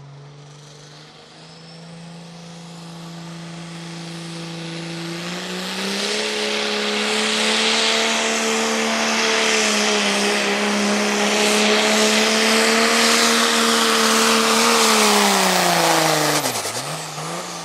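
Turbo-diesel pulling pickup in the 3.6 turbo class running at full throttle under load, its engine note climbing and holding high while it grows much louder. Near the end the engine speed drops sharply as the pull ends.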